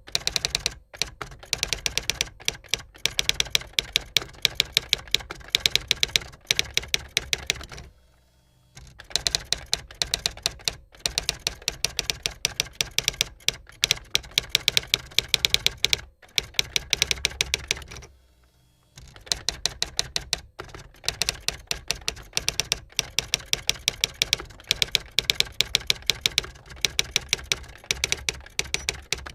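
Typewriter keys struck in fast runs of sharp clicks, with two pauses of about a second, roughly a third and two thirds of the way through.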